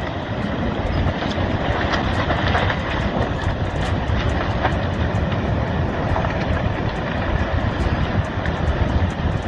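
Massive landslide pouring into the sea: a steady low rumbling roar with many small cracks and clicks throughout.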